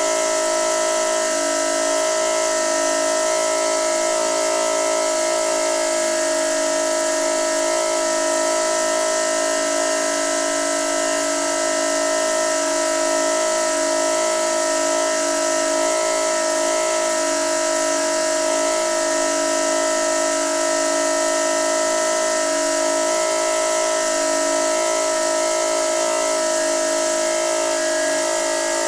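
Noisy water pipe giving a steady whine of several held tones over an even hiss.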